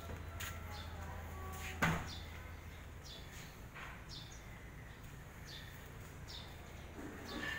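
Small birds chirping, short high chirps that fall in pitch, about one a second. A single sharp knock about two seconds in, with a low hum that fades out around then.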